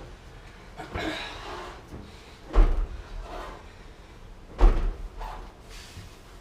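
Knocks and thuds of a GE gas dryer's metal cabinet panels being handled as the dryer is taken apart, with some scraping between; two loud knocks about two and a half and four and a half seconds in, and a lighter one about a second in.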